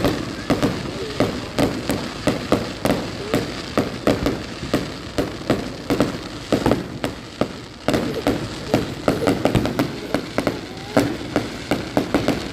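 Firecrackers going off in a rapid, irregular string of sharp pops and bangs, several a second, some louder than others.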